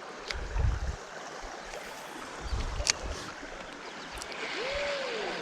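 Creek water running steadily, with a few low rumbles and light clicks. Near the end there is a short tone that rises and then falls.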